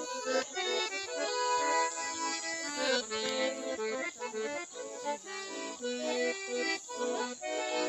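Accordion music playing, a quick run of notes and chords that keeps moving without a break.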